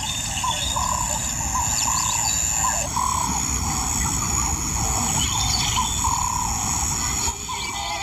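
Bush ambience: a steady high insect drone under a short rising-and-falling animal call repeated about twice a second, over a low rumble.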